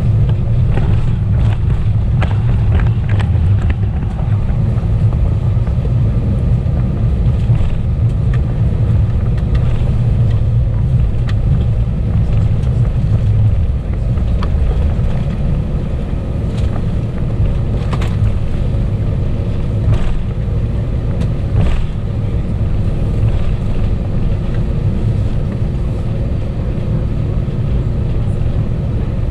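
Airbus A320 cabin noise: a loud, steady low rumble of the engines and airflow with a few faint steady tones above it, and scattered light clicks and rattles from the cabin fittings.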